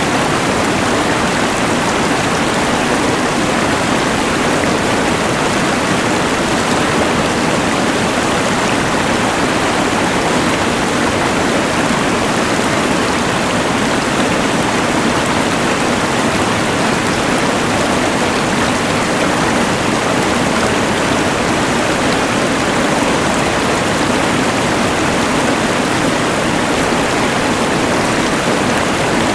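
Rushing mountain river layered with a LectroFan white noise machine: a steady, even rush of water and hiss that does not change.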